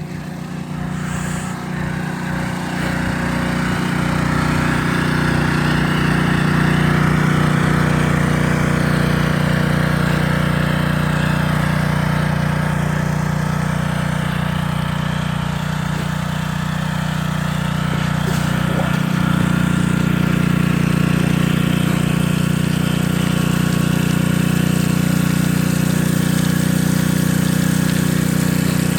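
Small engine-driven water pump running steadily at constant speed, pumping water to flood an ice rink.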